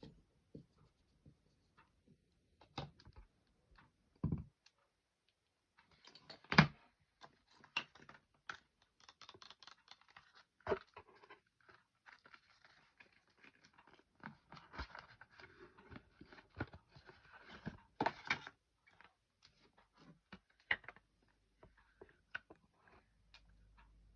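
An iPhone and its phone case being handled close up: scattered sharp clicks and taps, with a busier stretch of rustling and scraping from about six to nineteen seconds in. The loudest is a single sharp tap about six and a half seconds in.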